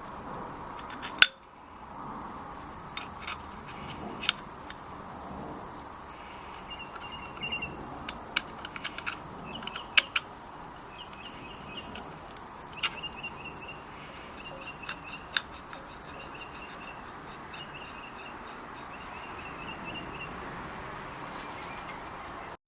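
Birds chirping in quick strings of short repeated notes over a steady hiss, with scattered sharp clicks or taps, the loudest about a second in and again about ten seconds in.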